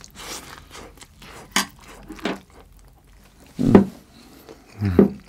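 Close-up mouth sounds of eating: chewing and sharp lip smacks and clicks on a mouthful of food, with two short voiced hums near the end.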